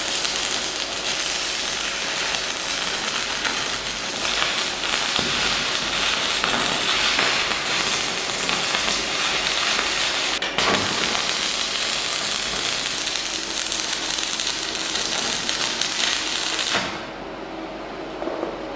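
Welding arc crackling steadily as a bead is laid, with a brief break about ten seconds in. It stops abruptly near the end, leaving a faint steady hum.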